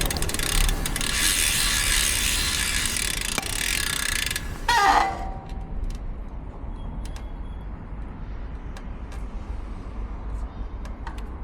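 Road bike's DT Swiss ratchet freehub buzzing as the bike coasts, over wind and road noise, then a short brake squeal about five seconds in as it slows. After that the bike is much quieter, with only scattered clicks.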